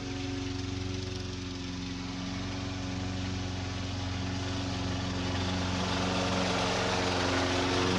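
An engine running steadily at an even pitch, growing gradually louder over the last few seconds.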